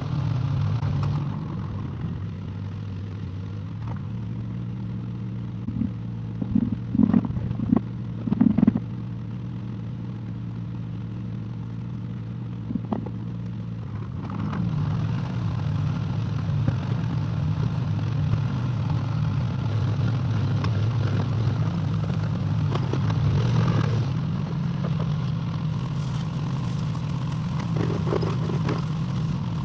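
Excavator engine running steadily, with a few loud clanks about a quarter of the way in; about halfway through the engine note rises and stays louder, as if the machine is working harder.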